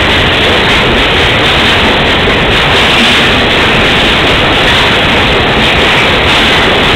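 Freight train of Taki 1000 oil tank wagons passing close by at speed: a loud, steady rush of wagon and wheel noise with no letup.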